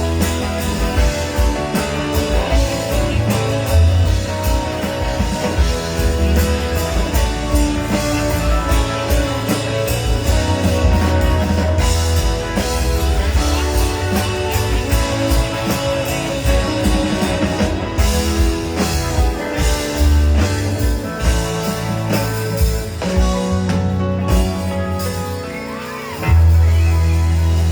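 Live rock band playing an instrumental passage on electric guitar, bass and drums, with steady drum hits. Near the end a loud, sustained low chord rings out.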